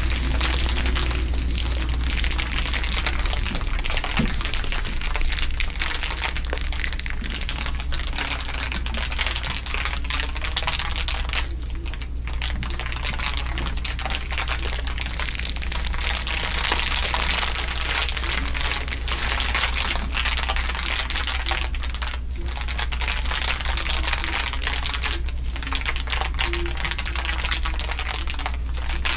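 Several layers of crinkling run together as a dense, continuous crackle of tiny clicks, over a steady low hum.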